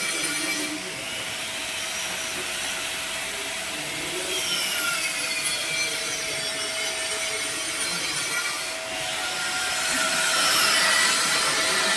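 Electric welding arc running on a pipe joint during a 6G-position weld test: a steady, rough hiss with brief dips in level about a second in and again near the end.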